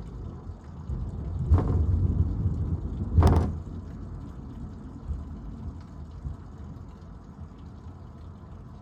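Thunder: a low rumble that builds about a second in, split by two sharp cracks, the second and louder one about three seconds in, then dying back to a steady low rumbling background.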